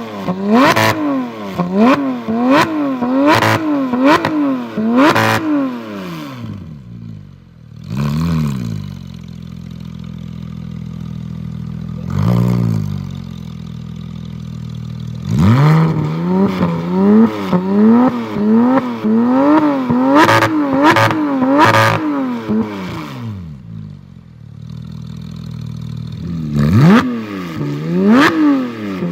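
Porsche 991 GT3 flat-six through an iPE Innotech titanium exhaust, blipped repeatedly from idle in quick rev bursts, several per cluster with sharp cracks at many of the peaks, settling back to a steady idle between clusters and with single blips in the pause.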